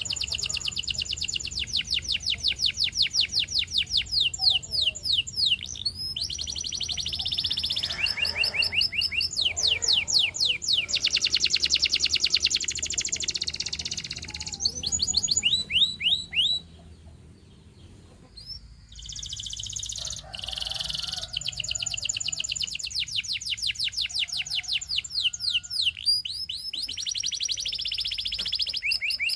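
Domestic canary singing in long, fast trills of rapidly repeated notes, changing from one rolling phrase to the next. There is a pause of about two seconds a little past halfway, then the song resumes.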